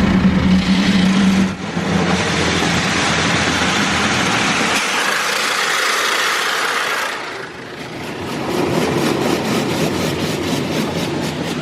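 Touch-free automatic car wash running over the car, heard from inside the car: a loud, steady hiss of spray or air over a low machine hum. The hiss dips about seven and a half seconds in, then comes back with a fast, even flutter.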